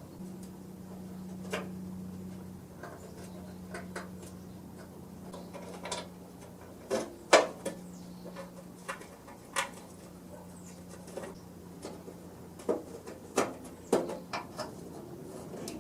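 Scattered sharp clicks and knocks at an irregular pace, a few louder than the rest, over a steady low hum that fades near the end.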